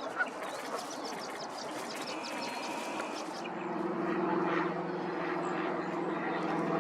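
Small birds chirping over a noisy outdoor background. A little past the midpoint a steady low engine drone starts and carries on.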